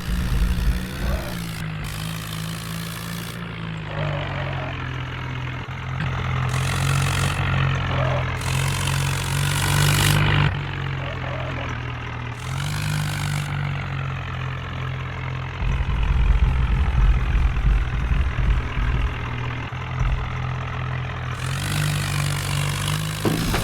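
Farmtrac tractor's diesel engine running at a steady speed, with rushing noise coming and going over it and a stretch of heavy low rumble about two-thirds of the way through.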